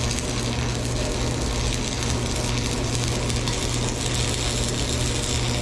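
Steady low machine hum under an even noise, holding level throughout.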